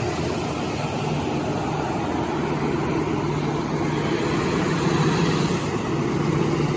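Six-roll wood sanding machine running steadily: a constant low hum from its motors under an even rushing noise from the spinning sanding rolls.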